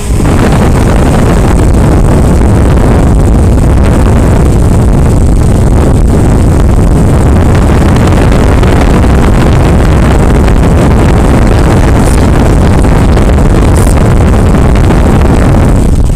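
Dometic Duo Therm 9000 BTU propane forced-air furnace running at close range: a loud, steady rush of its blower and burner, heaviest in the low range. It stops suddenly at the very end. The furnace is running well, with its blower motor freed and its combustion chamber cleaned out.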